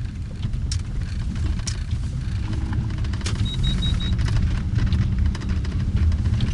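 Steady low rumble of a car driving, engine and tyre noise heard from inside the cabin, with scattered faint clicks. About halfway through comes a quick run of four short high beeps.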